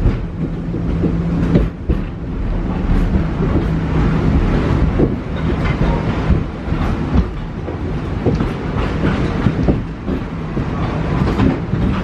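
A Wildlife Express Train passenger car rolling along the track, heard from inside the car: a steady running rumble of wheels on rail with frequent knocks and rattles.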